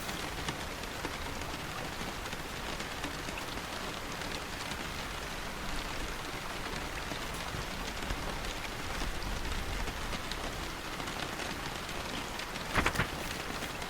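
Steady rain falling in an even hiss of drops, with a brief, crisp double rustle near the end, a paper page being turned.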